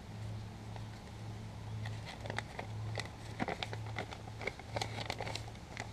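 Paper instruction sheet being unfolded and handled, with a run of crinkles and rustling clicks from about two seconds in, over a steady low hum.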